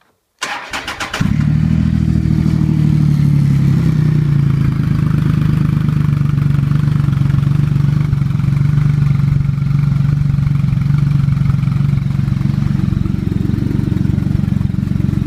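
Triumph Rocket III's 2.3-litre three-cylinder engine cranking on the starter for under a second, then catching about a second in and settling into a steady idle through its exhausts.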